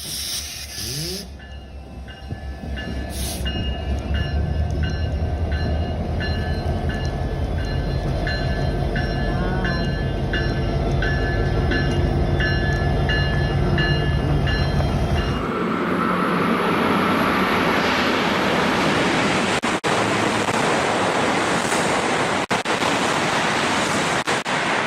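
Diesel locomotive rumbling along slowly with its bell ringing steadily. About fifteen seconds in, the engine rumble drops away and a loud, even rushing noise takes over.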